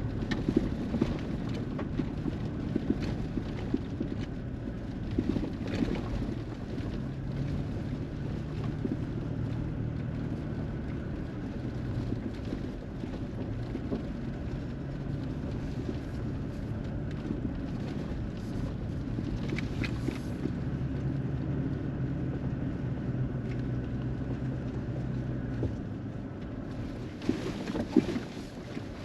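2021 Toyota Tacoma driving on a forest service road: a steady engine hum under road rumble, with scattered knocks and rattles. The engine pitch steps up once and drops again near the end.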